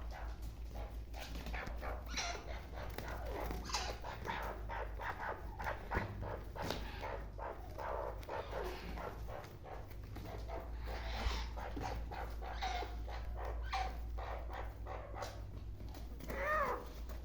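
Black francolin calling: a string of short, harsh, repeated calls, with a wavering drawn-out call near the end.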